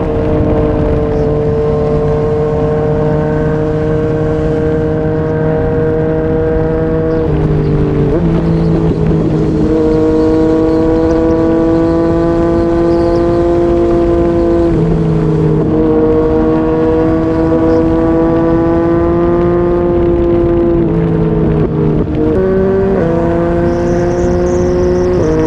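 Yamaha MT-09's three-cylinder engine, breathing through a Yoshimura R55 slip-on exhaust, running under steady throttle at highway speed with a slowly rising note. The note breaks briefly three times, about 7 s, 15 s and 22 s in, as the revs change, then carries on steadily.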